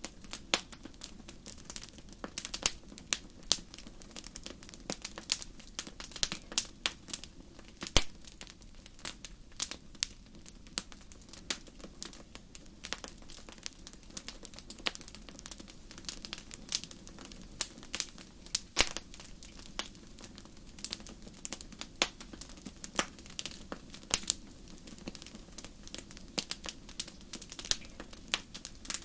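Wood fire crackling in a fireplace: irregular sharp snaps and pops, several a second with an occasional louder crack, over a steady low background of the burning.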